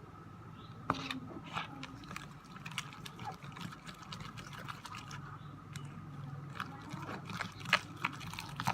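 Glue and activator being stirred into slime in a small container: irregular wet squishing with sharp little clicks of the stirrer against the container, as the slime starts to form.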